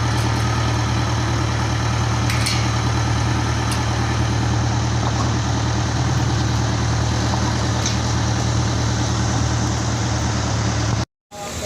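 Toyota Dyna dump truck's diesel engine running steadily at idle, a constant low hum. The sound cuts out for a moment near the end and comes back quieter.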